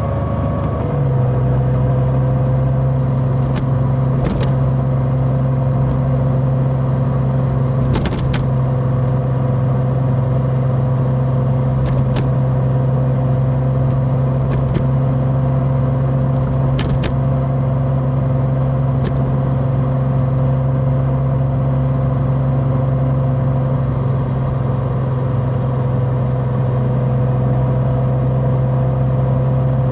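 Large motorcycle engine running at a steady speed while riding, its note shifting once about a second in and then holding even. A few short sharp ticks are heard through it.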